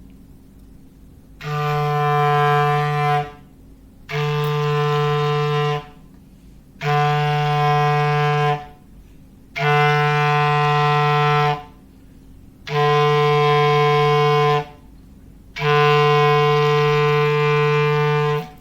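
Foghorn sound effect: six identical long, low, steady blasts, each nearly two seconds, repeating about every three seconds with short quiet gaps between.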